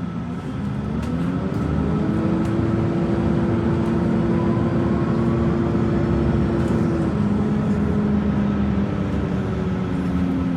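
Train running, its rumble overlaid by a motor whine that rises in pitch over the first couple of seconds, holds steady, then drops to a lower pitch about seven seconds in.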